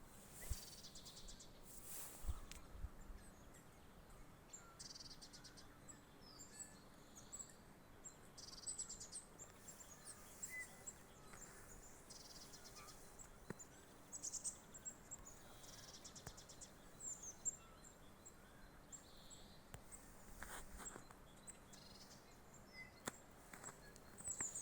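Faint early-spring woodland birdsong: short high chirps and trills recurring every second or two, with a few soft knocks in between.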